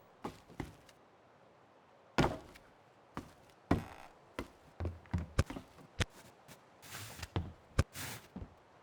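Irregular sharp knocks and pops, about fifteen spread over several seconds, two of them near the end with brief hissing bursts.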